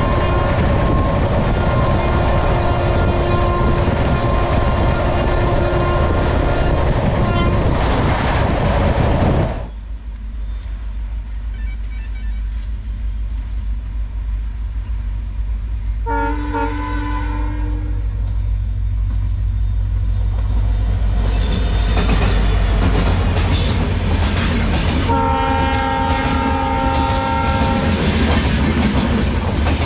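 Express train running at speed, its wheels clattering over the rail joints. Then, heard from trackside, the WDP4D diesel locomotive sounds its horn twice, a short blast and later a longer one, as the train approaches and its coaches rumble past.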